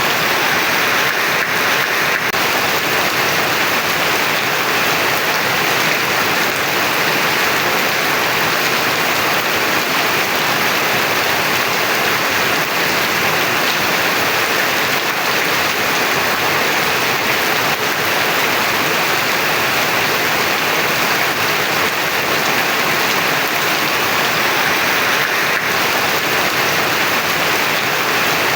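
Heavy rain falling steadily, a dense, even hiss of rain with no letup.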